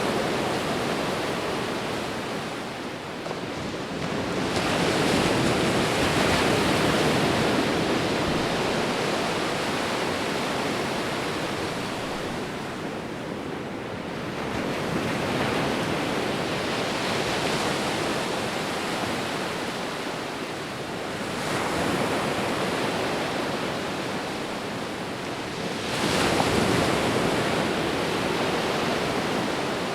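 Sea waves breaking and washing up a shore, a continuous surf that swells and eases. Fresh surges come in about every five to ten seconds, with a sharper one near the end.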